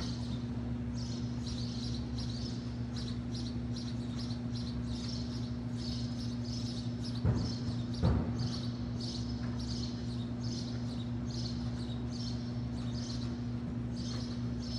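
Small birds chirping again and again in short high calls, over a steady low hum, with two dull thumps about halfway through.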